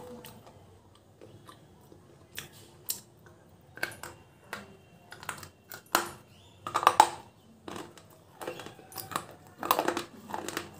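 A slate pencil being bitten and chewed: sharp, dry crunches, sparse at first, then about one every half second from roughly two seconds in, loudest a little past the middle.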